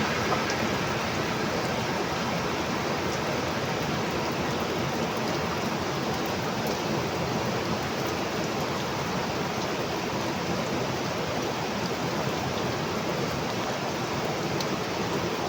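Heavy tropical rain falling steadily, an even hiss with a few separate drips heard now and then.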